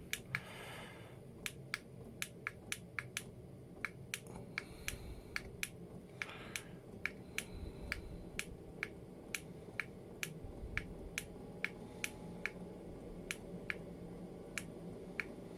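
Chinese diesel heater running at full temperature: its fuel dosing pump ticks steadily, about two to three clicks a second, over a faint low hum from the combustion fan.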